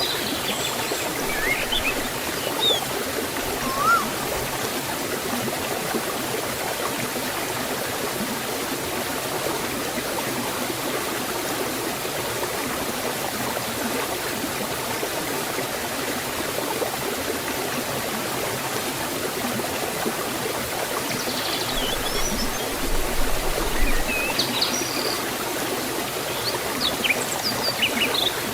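Forest stream and small waterfall flowing steadily, with brief bird chirps near the start and again near the end.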